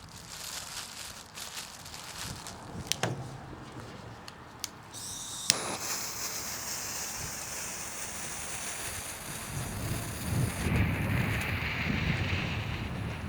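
A few sharp clicks, then a paper smoke ball catches about five and a half seconds in and hisses steadily as it burns. Wind gusts rumble on the microphone near the end.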